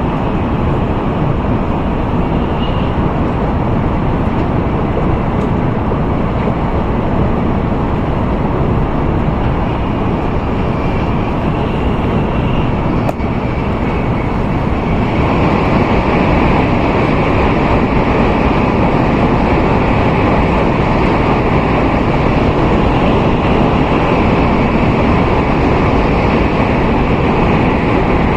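Steady rushing cabin noise of an N700A Tokaido Shinkansen train running at speed, heard from inside the passenger car; the noise grows louder and brighter about halfway through.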